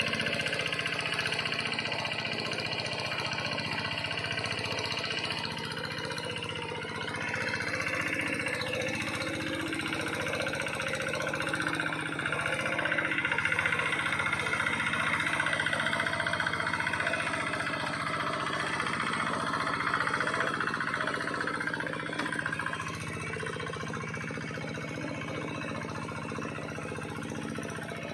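Engine of a two-wheel hand tractor running steadily as it works a flooded rice paddy, a little louder for a while in the middle.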